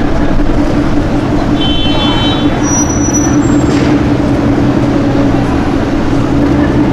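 A vehicle engine running steadily at idle, a loud, constant-pitched hum that does not rev. A short high-pitched tone sounds briefly about two seconds in.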